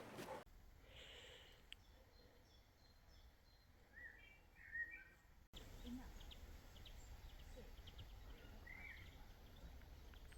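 Quiet outdoor ambience with a few faint bird chirps: a short run of them about four to five seconds in and another near the end.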